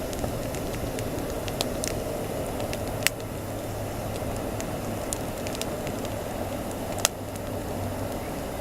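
Wood campfire burning with a steady hiss and scattered sharp crackles and pops, the two loudest about three seconds and seven seconds in, over a low steady hum.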